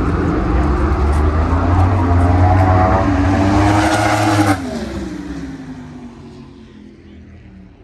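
Drag car's engine at full throttle, its pitch climbing for about four and a half seconds, then dropping off suddenly and falling in pitch as it fades away down the strip.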